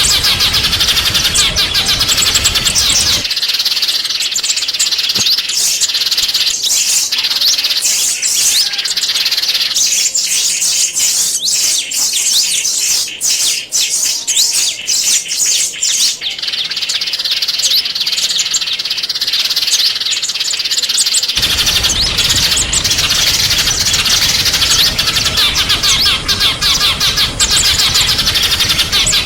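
Many small songbirds chirping and twittering rapidly in a dense, high-pitched chorus. A low background rumble under the birds drops away about three seconds in and comes back near twenty-one seconds in.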